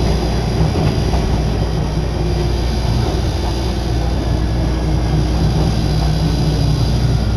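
Nagano Electric Railway train running between stations, heard from inside the carriage as a steady rumble.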